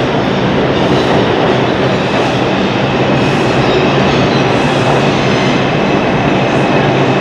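Train running on the rails: a steady, loud noise of wheels and running gear, with a faint steady high tone above it.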